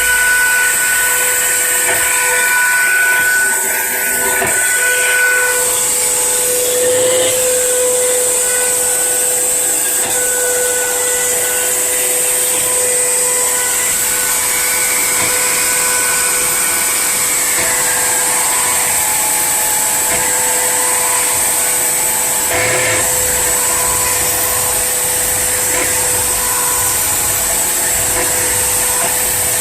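Spindle motor of a home-built CNC engraving machine running steadily while cutting letters into granite: a constant high whine over hiss.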